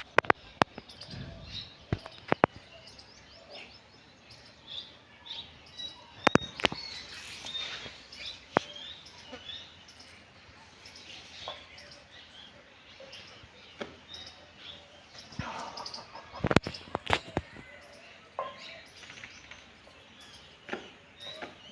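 Birds chirping with many short, high calls, broken by several sharp clicks or knocks.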